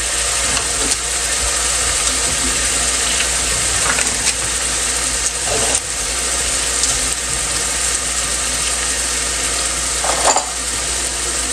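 Ground onion and green chilli paste frying in oil in a pan, a steady sizzling hiss with a few brief knocks.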